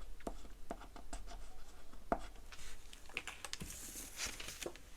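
Light taps and paper rustling as cash bills are handled, with scattered small clicks at first and denser crisp rustling in the second half.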